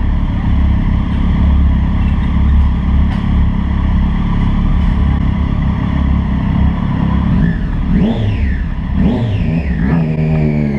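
Honda CBR1000RR's inline-four engine running hard at speed, heard from a camera mounted on the bike, with a heavy low rumble underneath. Near the end the engine note swings sharply up and down three times in quick succession.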